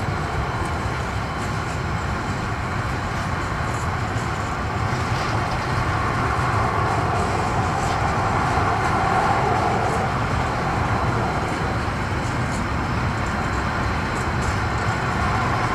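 Freight train wagons rolling past: a steady rumble of steel wheels on rails with faint light ticks, a little louder in the middle.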